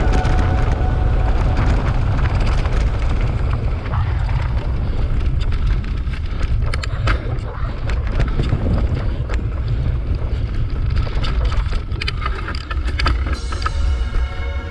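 Wind buffeting the microphone of a camera riding on a mountain bike, with the clicks and rattles of the bike going over a rough trail; music comes in near the end.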